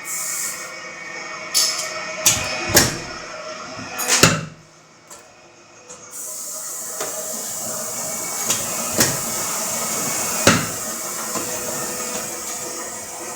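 Hydraulic punch press running with a steady hum, with sharp metallic bangs as it punches or cuts steel: four bangs, a short quieter gap about halfway, then the hum again with four more bangs.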